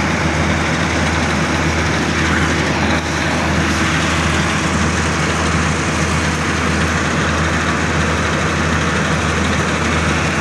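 Engine of a wheat harvesting machine running steadily, with a constant low hum under a broad mechanical noise.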